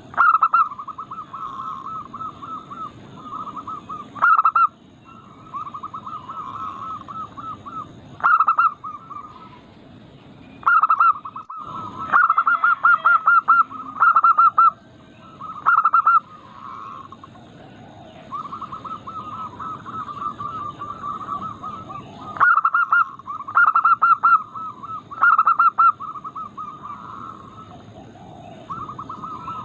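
Zebra doves (perkutut) cooing: repeated rolling phrases of quick coos, each opening with a louder note, broken by short pauses, with some phrases running into one another.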